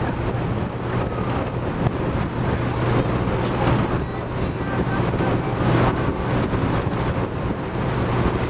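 Steady low drone of a sightseeing boat's engine, mixed with wind buffeting the microphone and the rush of churning sea water around the hull.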